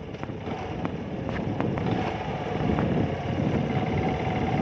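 Motorcycle engine running while riding, with wind noise on the microphone and a few light clicks. The sound grows a little louder over the first couple of seconds.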